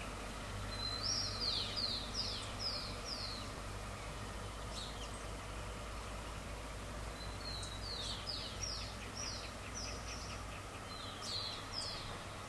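A songbird singing three phrases of quick, high, downward-slurred notes, about three or four notes a second, over a steady low outdoor rumble.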